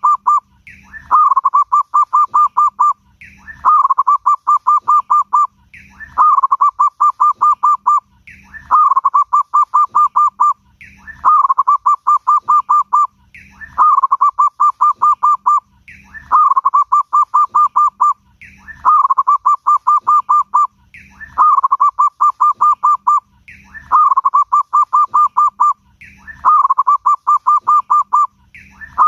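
Zebra dove (perkutut) cooing. The same phrase repeats about every two and a half seconds: a short higher opening note, then a rapid run of about a dozen staccato coos.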